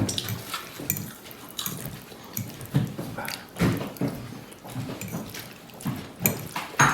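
Close-up eating sounds: irregular chewing and smacking, several short soft sounds a second apart, with one louder one near the end.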